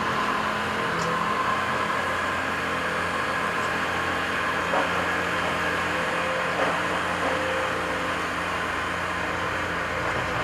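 Diesel engine of a piece of heavy earthmoving equipment running steadily, with a few faint knocks.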